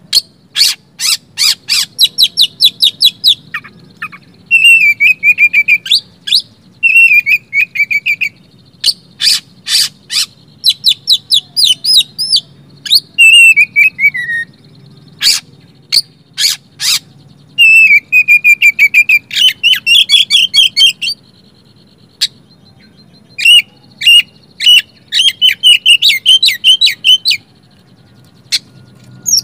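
Oriental magpie-robin singing a loud, varied song: sharp clicking notes, falling whistled phrases and fast high chattering trills, delivered in bursts with short pauses.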